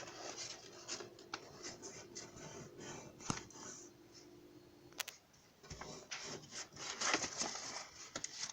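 Irregular rubbing and scraping strokes of paper being worked by hand, with two sharp clicks, one about a third of the way in and one just past halfway.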